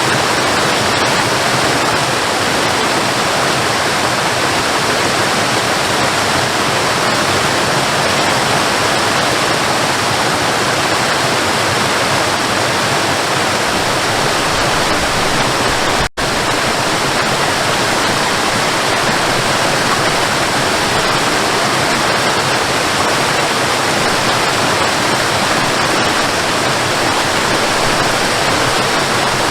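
Waterfall: a steady, even rush of falling water, with a brief gap in the sound about halfway through.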